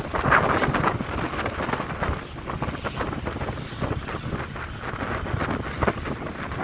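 Wind buffeting the microphone on a ship under way at sea, over the rush of sea water, with a louder surge near the start.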